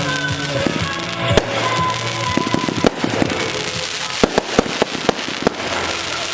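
Fireworks bursting again and again, some sharp bangs in quick clusters, over music playing throughout.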